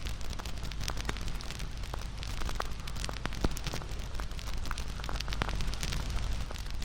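Wood bonfire burning, with irregular sharp crackles and pops several times a second over a steady low rumble of the flames; one louder pop about halfway through.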